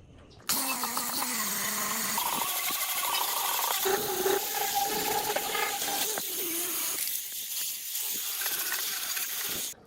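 A compressed-air tool hissing loudly, with faint wavering whistling tones over the hiss. It starts suddenly about half a second in and cuts off abruptly near the end.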